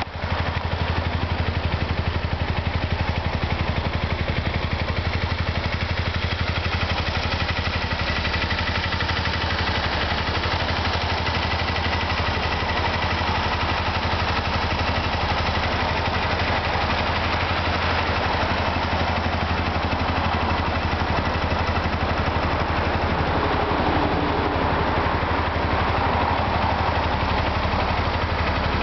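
Kawasaki Eliminator 250V's V-twin engine idling steadily.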